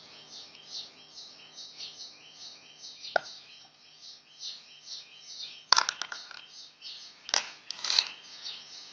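Birds chirping over and over in quick short calls, with a few sharp clicks and knocks in between.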